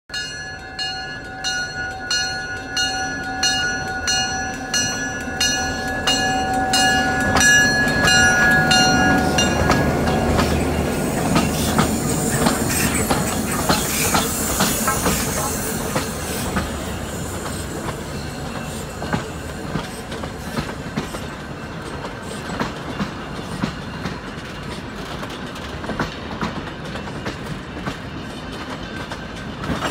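Heritage train passing a level crossing close by. First a crossing warning bell rings in quick, even strikes for about nine seconds. Then the locomotive goes by with a loud rush that peaks about halfway through, and the cars follow with the clickety-clack of steel wheels over rail joints.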